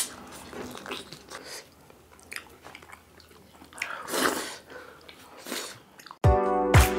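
Close-miked eating sounds: chewing and wet mouth smacks as spicy chicken curry and dhido are eaten by hand. About six seconds in, music with a heavy, regular beat cuts in abruptly.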